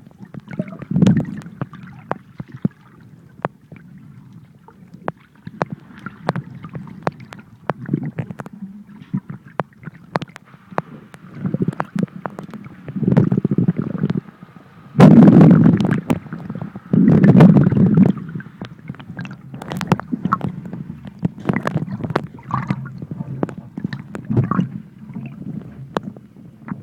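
Muffled underwater sound picked up through a plastic waterproof pouch: low sloshing rumble that swells into heavy surges about halfway through, with many sharp clicks and crackles of the pouch.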